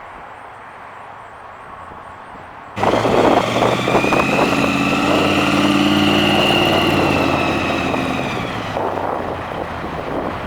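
Supercharged 350 cubic-inch V8 of a 1970 Chevrolet Camaro Pro-Street running loud, with a high steady whine over the engine note. It cuts in abruptly about three seconds in, swells, and fades off over the last couple of seconds.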